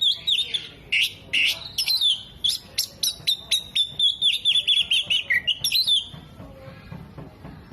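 Oriental magpie-robin (kacer) singing a fast run of sharp, high repeated chirps and short whistled slides, several a second; the song stops about six seconds in.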